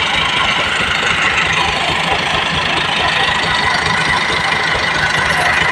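Tractor diesel engines running steadily with a dense, even clatter, working as one tractor is hitched to tow another out of deep mud.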